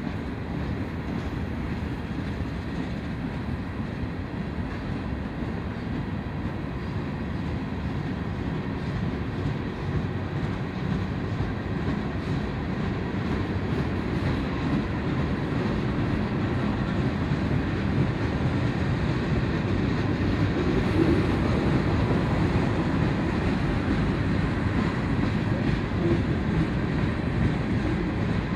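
Freight train rolling along the rails, a steady rumble of wheels and cars that grows gradually louder.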